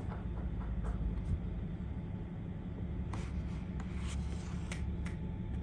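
Front-load garbage truck engine running steadily and low, with a few light clicks and knocks scattered through the second half.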